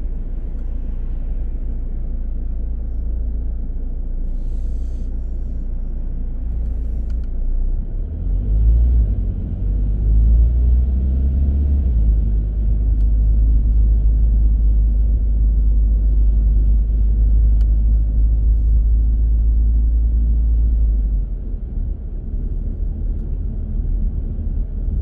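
Car driving, a steady low rumble of engine and tyres. About eight seconds in it grows louder and rises in pitch as the car speeds up, holds steady, then eases off again near the end.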